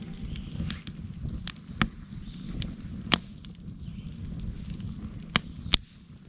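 Campfire burning with a steady low rustle, punctuated by about five sharp, irregular pops and cracks of burning wood, the loudest about three seconds in and near the end.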